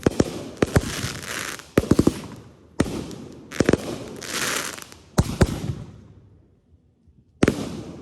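Consumer aerial fireworks going off: about a dozen sharp bangs in quick clusters, several trailed by a lingering hiss, then a lull and one more bang near the end.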